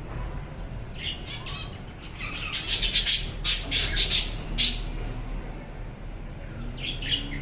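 Budgerigars squawking: a few short calls, then a loud run of harsh screechy calls from about two to five seconds in, with more calls near the end.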